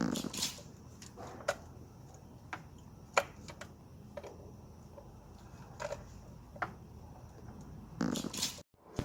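Scattered light clicks and knocks of hands and tools handling parts in a car's engine bay, over a low steady background hum, with a louder rustle near the end.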